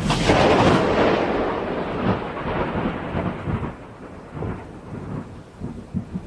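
Thunderclap during a thunderstorm: a loud crack right at the start that rolls on as rumbling and fades over about four seconds, with a few smaller low rumbles near the end.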